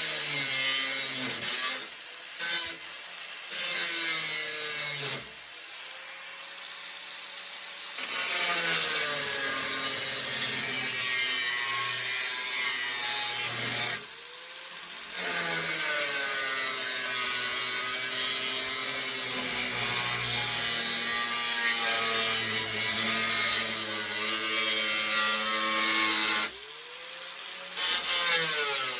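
Handheld electric power tool working sheet steel for a fabricated air filter lid: its motor runs loud and its pitch sags under load and recovers as the cut eases. It stops briefly twice, winding down and spinning back up each time.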